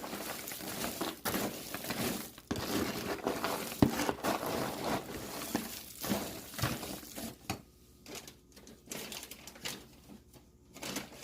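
Coated popcorn being stirred and tossed in a bowl: a dry rustling and crunching with many sharp clicks. It is busiest for the first six or seven seconds, then thins to scattered clicks.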